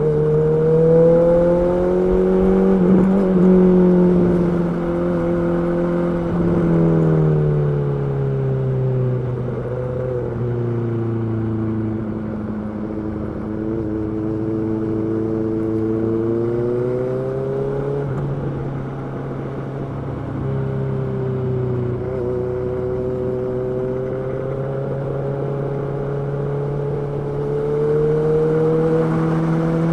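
Honda CB650R's inline-four engine running, its note rising and falling smoothly as the revs change, with a quick drop in pitch a little past halfway.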